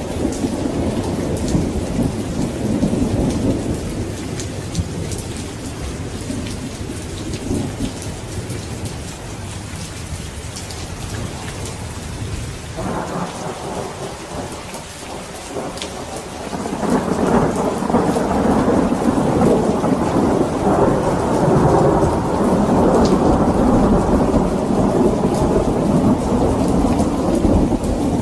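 Steady rain with rolling thunder. A rumble fades over the first few seconds, a sharp crack comes about 13 seconds in, and a louder, long rumble builds from about 17 seconds in.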